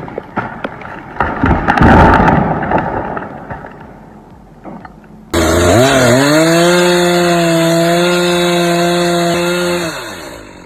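A loud burst of cracking and knocking noise in the first few seconds, then a two-stroke chainsaw starts up abruptly about five seconds in, dips and climbs to a steady full-throttle whine, and holds it for about four seconds before the throttle is released near the end.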